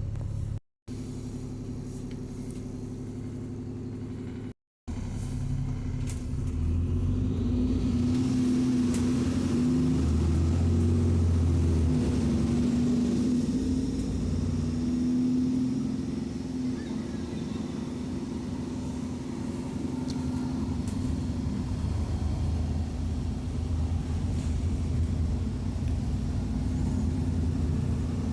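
Alexander Dennis Enviro 400 double-decker bus engine running on the move, heard from on board. The audio cuts out twice for a moment near the start, then the engine pulls harder and louder from about six seconds in before easing back.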